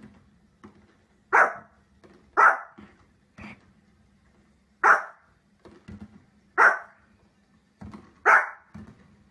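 A small dog barking: five sharp, loud barks spaced a second or two apart, with quieter short barks between them.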